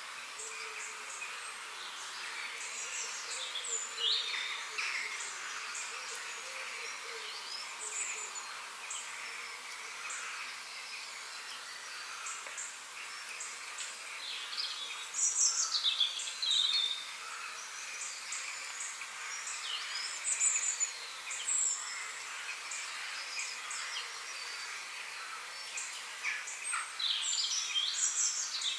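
Several songbirds chirping and trilling in quick, scattered phrases, a chorus that thickens about halfway through and again near the end, over a steady high hiss.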